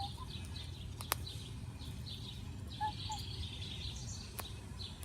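Birds chirping: many quick high chirps and a few lower short notes over a steady low background rumble. There are two sharp clicks, about a second in and near the end.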